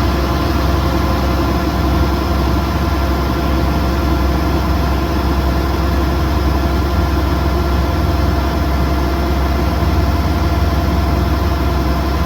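Kubota DC108X combine harvester's diesel engine running steadily, with a constant low hum and an even drone of machinery.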